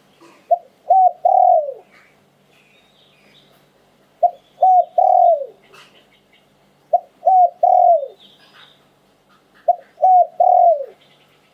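Spotted dove cooing in four phrases about three seconds apart, each of two short coos and a longer coo that falls in pitch at its end, the 'liw tan' cooing style prized by Thai dove keepers. Faint chirps of other small birds in the background.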